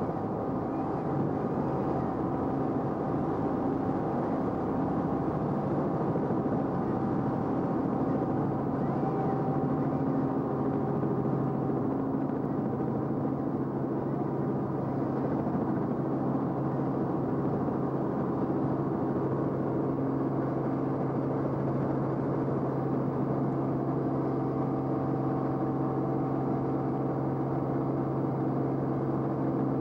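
Aircraft engine drone heard from inside the cabin: a steady hum with several even tones, its lowest tone growing stronger a few seconds in and then holding.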